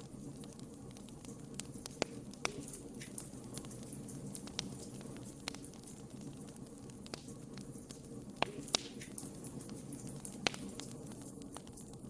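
Wood fire crackling: scattered sharp pops and snaps over a steady low rumble of the burning logs, with a few louder pops about two seconds in, twice near the eight-and-a-half-second mark and once past ten seconds.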